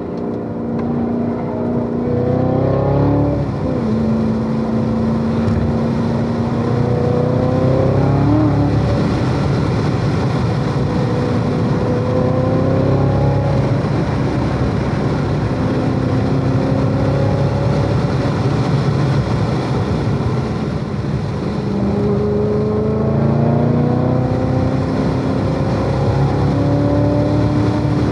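Chevrolet Corvette C7 Z06's supercharged 6.2-litre V8 under hard track driving. Its pitch climbs and drops sharply twice in the first nine seconds, then rises and falls more gently as the car accelerates and slows through the corners.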